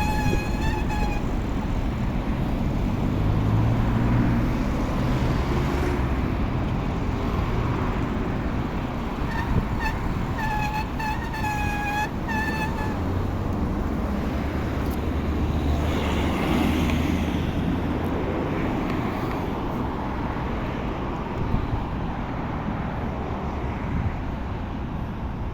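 Steady road-traffic noise heard from a bicycle ridden along a road, with low wind rumble on the microphone. A voice briefly hums or sings a wavering tune about ten seconds in.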